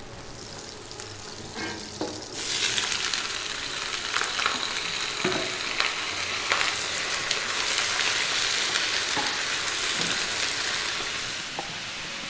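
Sliced vegetables stir-frying in hot oil in a frying pan, sizzling loudly, with scrapes of a wooden spatula. The sizzle comes in suddenly about two seconds in and drops away near the end.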